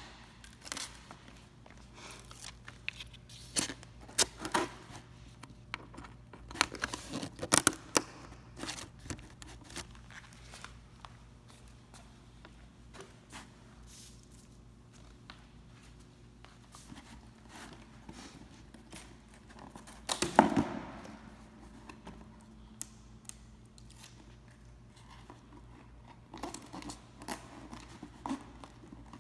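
Cardboard being handled and folded: irregular crinkling, scraping and tearing rustles with sharp clicks, and a louder burst of rustling about two thirds of the way through.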